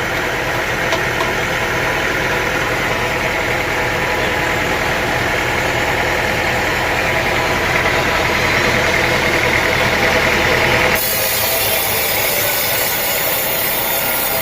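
Sawmill machinery running with a steady engine-like hum. About eleven seconds in the sound switches abruptly to a hissier, higher noise with little low hum.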